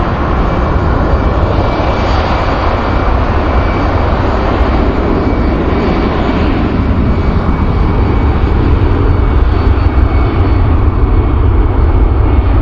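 Jet airliner's engines running loud and steady, a deep rumble with a faint high whine, growing a little louder towards the end.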